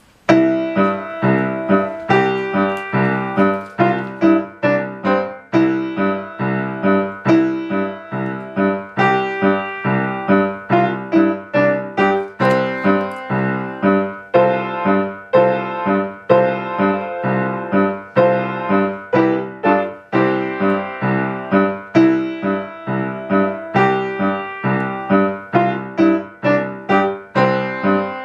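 A piano playing a lively solo piece in a steady rhythm of short, repeated notes and chords.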